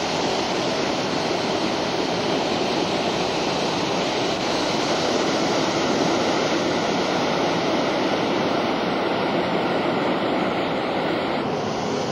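Hot air balloon's propane burner firing in one long, steady blast that starts abruptly, loud enough to drown out speech.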